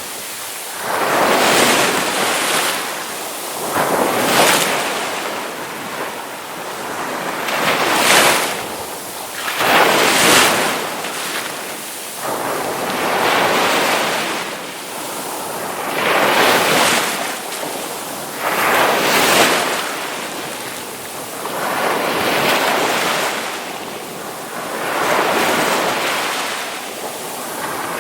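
Ocean waves crashing on the shore, a rushing hiss that surges and ebbs over and over, about ten breakers a few seconds apart.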